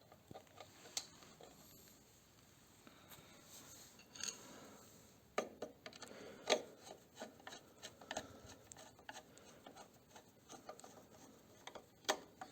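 Faint handling sounds: scattered clicks, taps and short scrapes of hands working on small metal parts and tools, busier about halfway through.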